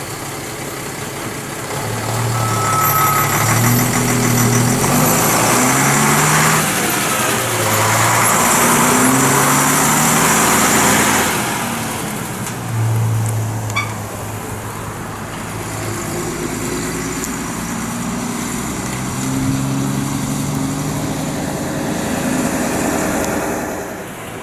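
Lorry diesel engine pulling away and accelerating, its revs climbing and falling back in steps as it changes up through the gears, loudest about halfway through, then easing off.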